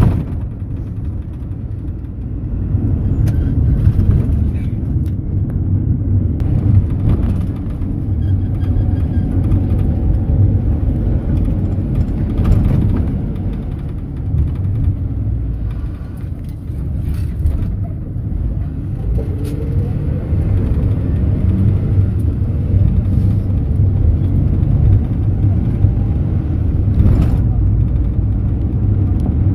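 Mercedes-Benz Sprinter minibus driving, heard from inside the cabin: a steady low engine and road rumble with a few brief knocks and rattles.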